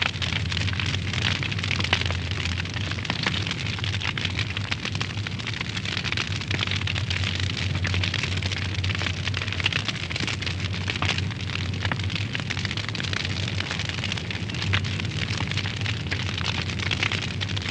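Wood fire burning in a fireplace, crackling steadily with many small sharp pops over a low rumble.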